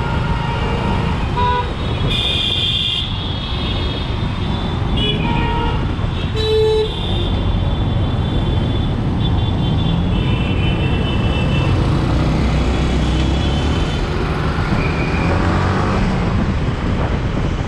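Yamaha MT-15's single-cylinder engine running under way in traffic, with road and wind noise, while vehicle horns honk several times, around two seconds in, again at five to seven seconds, and for a longer stretch from about ten to fourteen seconds.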